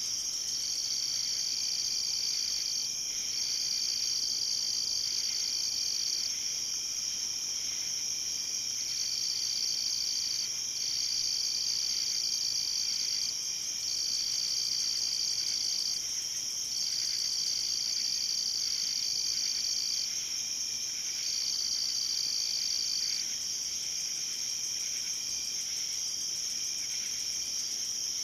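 Night insect chorus: a steady, high-pitched ringing trill, with one insect's slightly lower trill coming in long bouts of one to three seconds, separated by short pauses.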